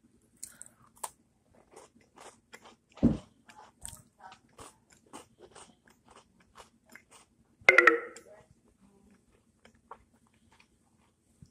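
Chocolate chip cookie being bitten and chewed close to the microphone: a run of small crisp crunches, with a louder thump about three seconds in and a short vocal hum near the end.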